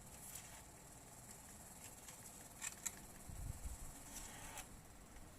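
Quiet background with a steady high hiss, broken by a few light clicks a little past halfway and a dull low knock just after them.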